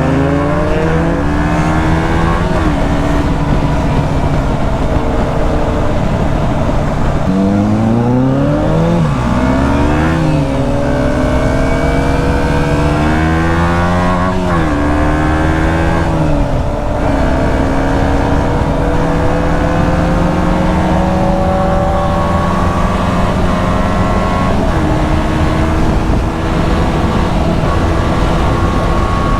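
KTM 125 Duke's single-cylinder four-stroke engine pulling through the gears. Its pitch climbs under throttle and drops sharply at each gear change, several times in the first half, then makes one long slow climb before a final shift near the end.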